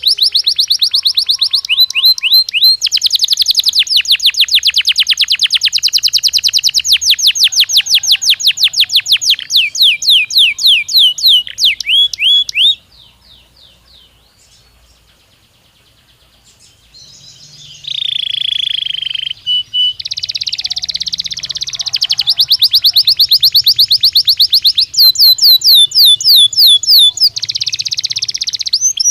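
Belgian canary singing: fast trills of rapidly repeated high notes, breaking off about halfway for a few seconds of near quiet, then starting again with buzzier rolls and more trills.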